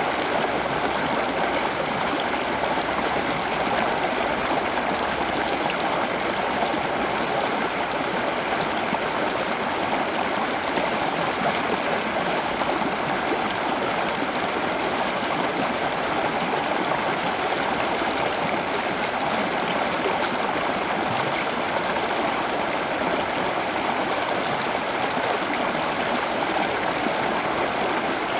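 Running water flowing steadily with a continuous even rush and trickle.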